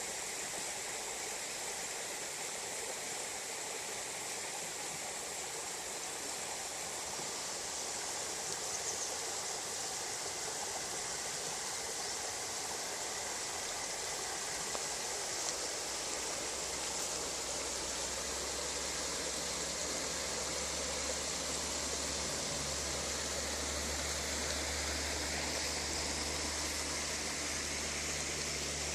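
Mountain valley stream rushing steadily over rocks, with a low steady hum joining in about halfway through.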